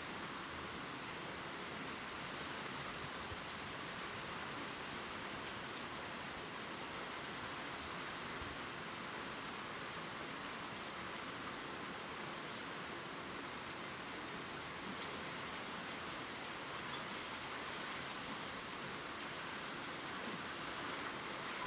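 Gentle rain falling steadily on leaves, an even patter with a few brighter drop ticks here and there.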